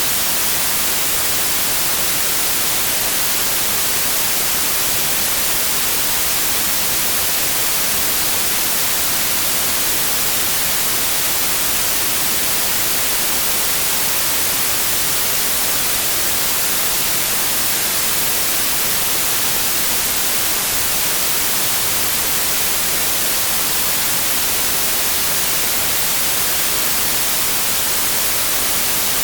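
Pure white noise: a steady, even hiss spread across the whole range of pitch, with no change, rhythm or tone in it.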